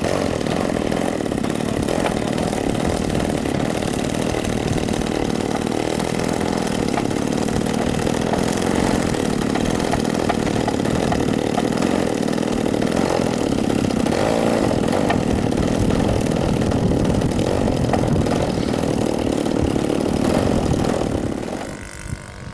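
Radio-controlled model aeroplane's engine running steadily with a buzzy, chainsaw-like tone, then stopping suddenly near the end.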